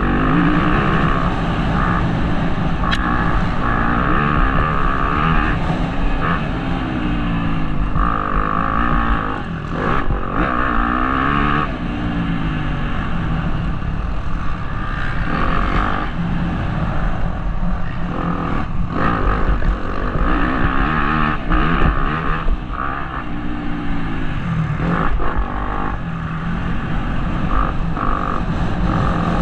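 Motocross bike engine revving up and easing off again and again through the gears, heard close up from a helmet-mounted camera.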